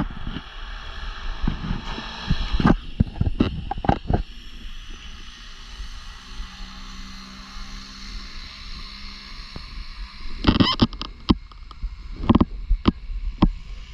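Wind rushing over the camera microphone, with irregular buffeting thumps and knocks in two clusters, about two to four seconds in and again from about ten and a half seconds on.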